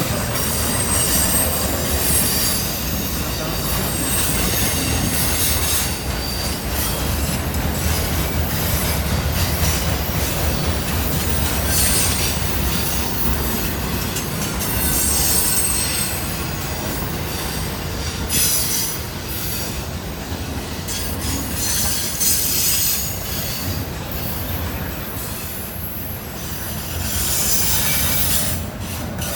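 Long train rolling past on the rails, its wheels giving short high squeals now and then over a steady rumble.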